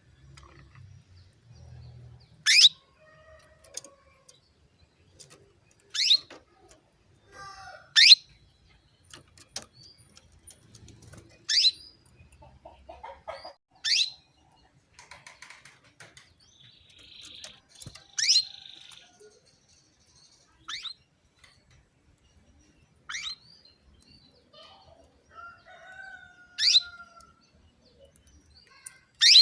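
Female canary giving short, sharp, high call notes, about ten of them, one every two to three seconds, with fainter lower chirps in between. These are the female's calls to a male, used to get male canaries singing.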